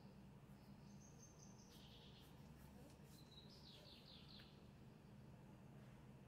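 Near silence with a low steady hum. Faint high-pitched bird calls, a few chirps and a quick trill, come during the first two-thirds.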